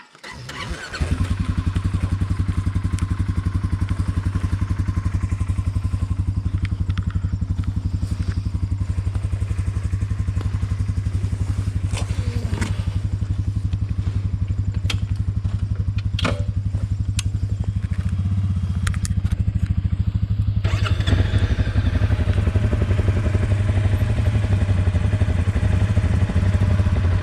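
A single-cylinder off-road engine starts about a second in and then runs steadily at idle, growing a little louder with more mechanical noise about three-quarters of the way through.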